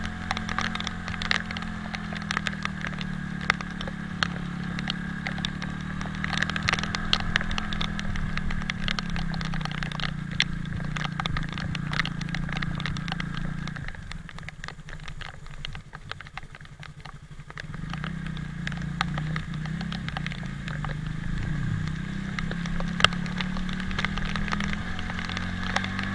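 Italika 250Z motorcycle's single-cylinder engine running while ridden, its pitch rising and falling with speed. It drops to a low idle about 14 seconds in for a few seconds, then pulls away again. Scattered raindrop ticks sound over it throughout.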